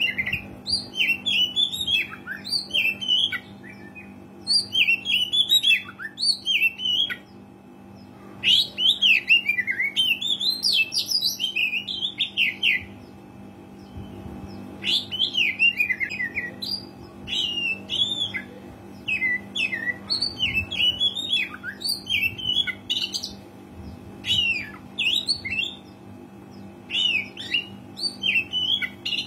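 Oriental magpie-robin (kacer) singing a loud, rapid song of varied sweeping and chattering phrases, with short pauses about 7 and 13 seconds in. A steady low hum runs underneath.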